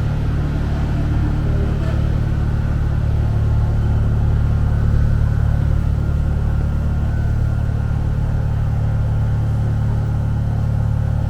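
Rubber-tyred MP 05 metro train running at a steady speed, a loud even low rumble with a faint steady whine above it.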